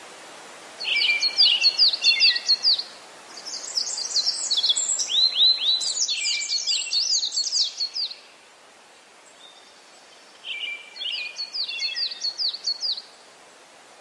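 Songbirds singing in three bursts of rapid, quickly gliding chirps, the middle one longest, over a steady outdoor hiss.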